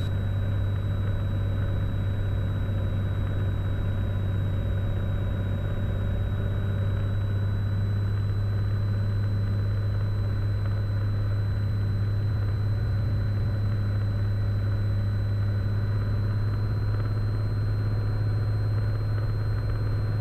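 Cessna Skylane's single piston engine and propeller droning steadily in flight, heard from inside the cabin, with a strong low hum and no change in pitch or level.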